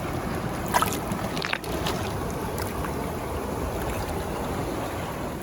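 Creek water running steadily, a constant rushing wash, with two brief sharper sounds in the first couple of seconds.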